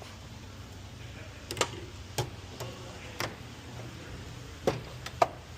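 A handful of short, sharp clicks and knocks at irregular intervals, the loudest pair near the end, over a steady low hum.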